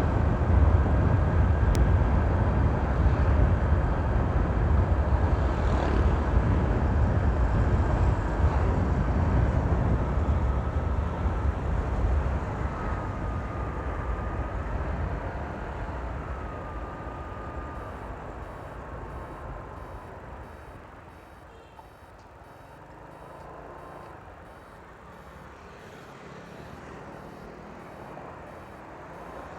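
Honda PCX scooter under way with an imported PCX CVT cooling fan fitted, heard from inside the rider's helmet: a loud low rumble of riding, with a thin turbo-like whistle that rises and falls about 10 to 17 seconds in. The sound then grows quieter as the scooter slows.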